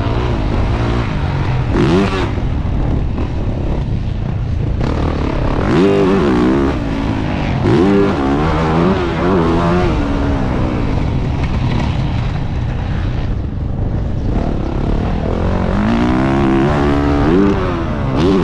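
Yamaha YZ450F 450cc single-cylinder four-stroke engine revving up and down again and again, its pitch climbing and dropping over a steady low rumble.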